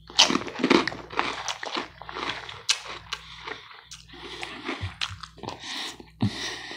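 A person chewing and biting into a mouthful of salad close to the microphone: a run of irregular, crisp crunches.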